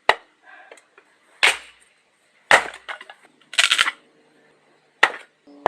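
Firewood being split with an axe: four sharp wooden cracks and knocks at uneven gaps of one to two and a half seconds, with a short clatter of wood between the third and fourth.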